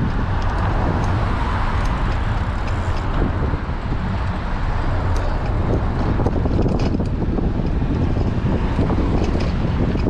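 Wind buffeting a bicycle-mounted action camera's microphone while riding in strong wind, a steady low rumble and hiss with scattered faint ticks and rattles.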